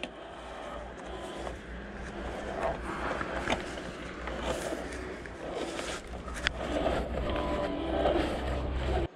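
Coaxial cable being pulled off a turning reel: a noisy scraping and rustling with scattered clicks over a steady low rumble, growing a little louder toward the end.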